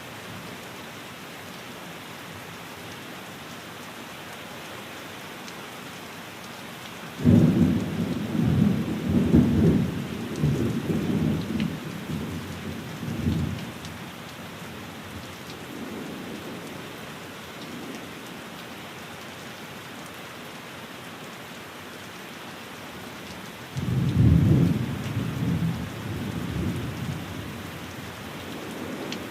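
Steady rain on a window, with two rolls of thunder: a sudden low rumble about seven seconds in that rolls on for some six seconds, and another near the end.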